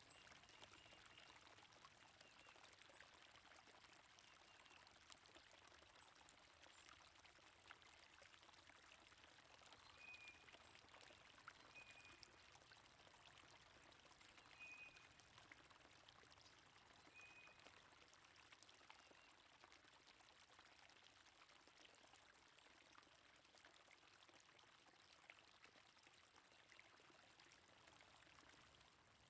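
Faint, steady flowing water, a stream or brook running. Short, high bird chirps are scattered through it, a run of them about ten to seventeen seconds in.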